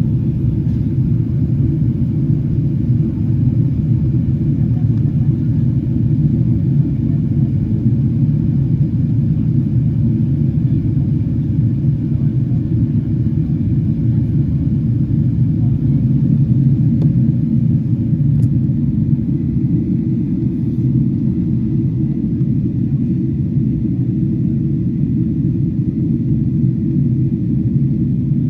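Boeing 777-300 cabin noise during the approach: a loud, steady low rumble of engines and airflow.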